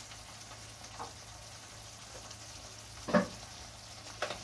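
Thick gravy frying in a pan, with a steady gentle sizzle. A single sharp knock comes about three seconds in, and a lighter one near the end.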